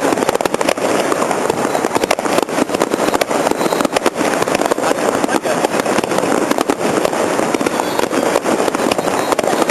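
Fireworks going off: many sharp pops and cracks in quick, irregular succession over a steady loud din.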